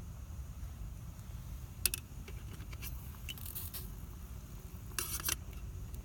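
Wood campfire crackling, with sharp pops about two seconds in, a scatter of crackles a second later, and a short burst of crackling near five seconds, over a steady low rumble.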